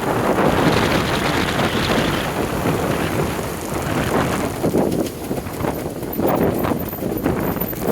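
Wind buffeting the microphone in loud gusts, over the running of a Yamaha DT230 Lanza, a two-stroke single-cylinder motorcycle.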